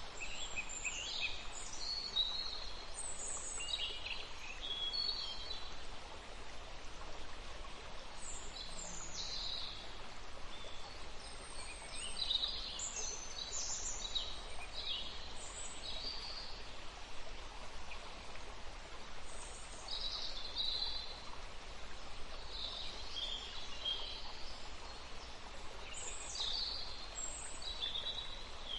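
Birds calling, with clusters of short high chirps and whistles every few seconds, over a steady even hiss of outdoor background noise.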